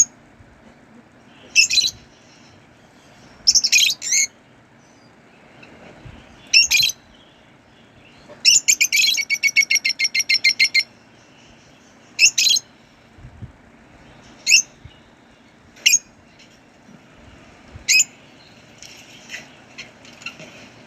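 A bird calling: short, high calls every second or two, with a rapid run of about a dozen repeated notes roughly halfway through.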